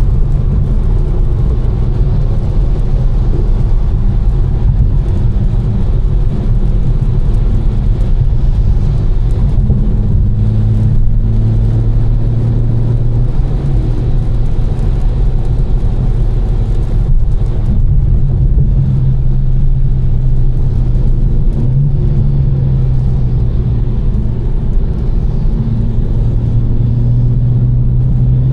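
Tuned BMW M4 twin-turbo straight-six, with catless downpipes and an Fi exhaust, droning steadily while driving, its note shifting a little about ten seconds in and again a little past twenty seconds. Underneath is a constant hiss of tyres on a wet road.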